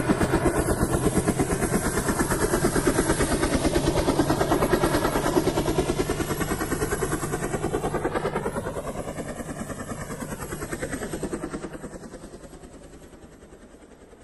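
A vehicle sound effect: a fast, even chopping engine or rotor sound that passes by. The pitch sweeps down a little past the middle, and then the sound fades away.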